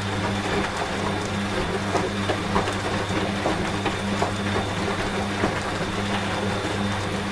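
A washing machine running with a steady low hum, mixed with falling rain and scattered sharp drop ticks.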